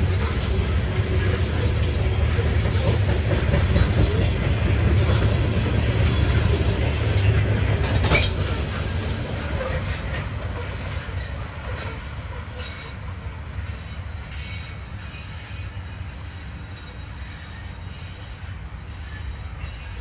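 Open-top coal hopper cars of a CSX freight train rolling past on the rails with a heavy rumble and one sharp knock about eight seconds in. The sound then fades steadily as the last car passes and the train draws away.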